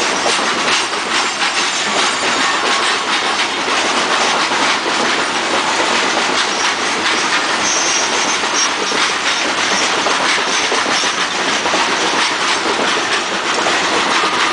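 CSX freight train of rock-loaded open-top hopper cars rolling past at a steady speed, wheels clicking over the rail joints in a continuous clatter. A brief faint high squeal from the running gear comes about halfway through.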